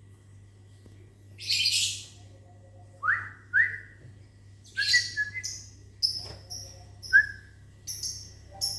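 Lovebirds calling in response to a person's whistling: a harsh screech about 1.5 s in, then two short rising whistles and another near the end, answered by a string of short, sharp, high chirps about twice a second.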